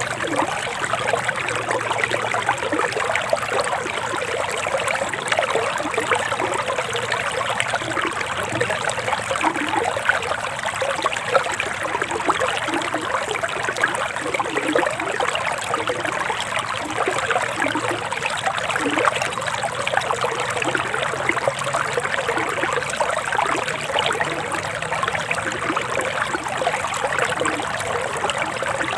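Forest river flowing: a steady babble of running water.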